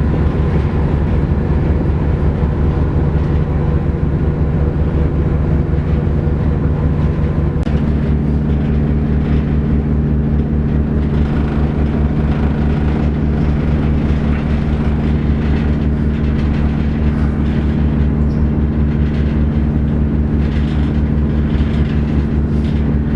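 Ship's diesel engine running steadily with a fast, even low throb, as heard aboard a RoRo car ferry. About eight seconds in, a steady higher hum joins it.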